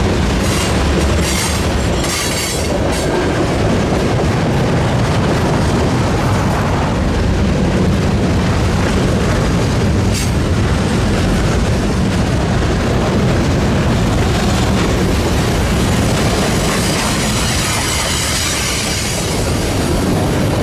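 Freight train rolling past, a steady heavy rumble with sharp clicks of wheels over rail joints.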